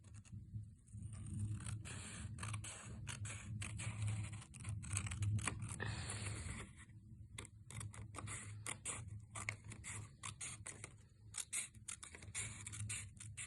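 Scissors snipping through folded origami paper: many short, quick cuts, with paper rustling and scraping between them.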